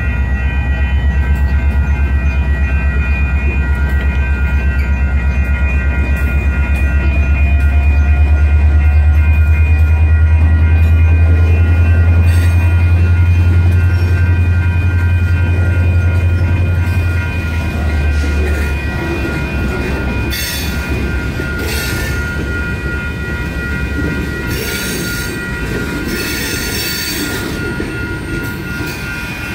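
Freight cars rolling through a grade crossing with a deep rumble and clatter, and the crossing's electronic bells ringing steadily over it. The rumble drops away about 18 seconds in. Several short high wheel squeals follow between about 20 and 28 seconds.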